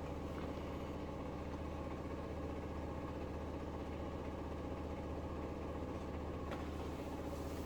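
Haier HW100-B1439N direct-drive washing machine on its 1400 rpm fast spin: a steady low hum of the spinning drum, with the motor itself hardly heard.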